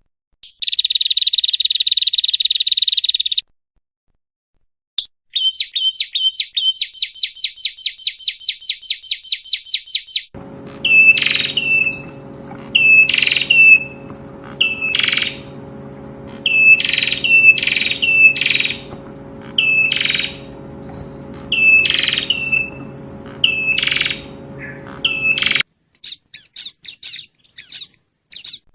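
Prenjak (prinia) song from a bird-training track. It opens with a fast buzzy trill, then a rapid run of sharp repeated notes at about five a second. After that come separate loud chirps about once a second over a steady low hum, which stop near the end and give way to faint quick ticks.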